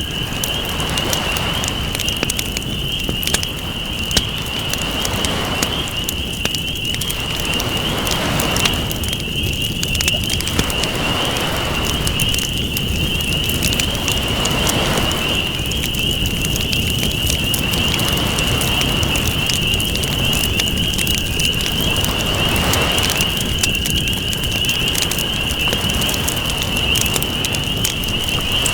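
Campfire crackling with many small pops, over ocean waves washing in and out in swells every few seconds. A steady high-pitched drone runs underneath.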